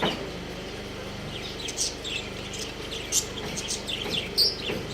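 Small pet birds chirping: many short, high chirps in quick, irregular succession.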